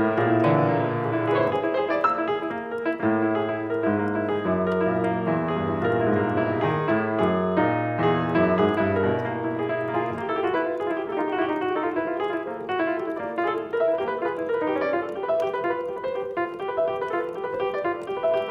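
Piano played continuously in a dense flow of notes, with a moving bass line under it that drops away about ten seconds in, leaving the notes in the middle and upper range.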